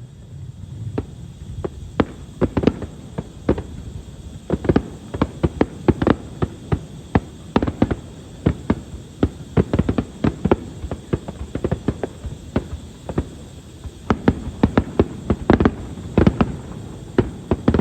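Fireworks going off in rapid succession: many sharp bangs and pops, several a second over a low rumble, coming thickest near the end.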